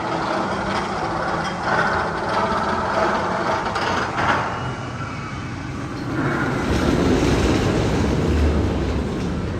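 Magnum XL 200 roller coaster train running along its steel track, wheels rumbling and clattering, louder from about six seconds in.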